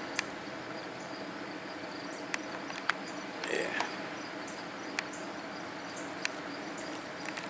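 Faint insect chirping over a steady outdoor background, with a few sharp clicks scattered through.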